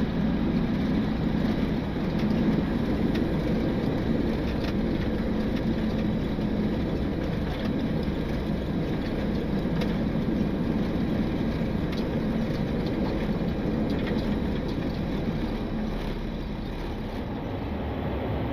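Steady flight-deck noise of a Boeing 727-200 taxiing after landing: its three Pratt & Whitney JT8D engines running at taxi power, heard inside the cockpit as an even low rumble and hum.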